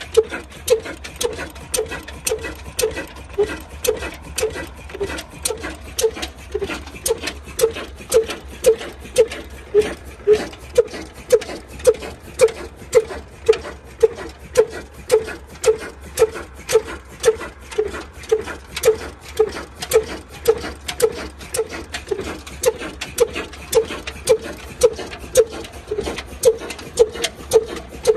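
Old desi diesel engine running slowly and evenly, firing about twice a second with a regular beat.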